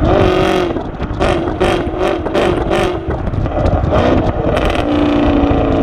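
6th-generation Camaro SS's 6.2-litre LT1 V8 exhaust with 2-inch headers and an X-pipe into the factory NPP exhaust. The engine note wavers up and down with a run of short, sharp blasts in the middle, then settles into a steady held note about five seconds in.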